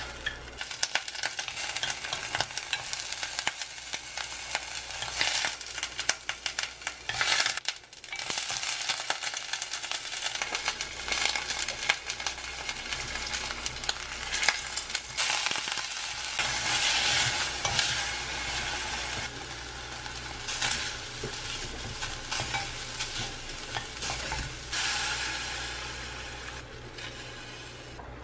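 Chopped green onion and ground meat sizzling in hot oil in a pot on a gas burner, stirred and scraped with a wooden spoon.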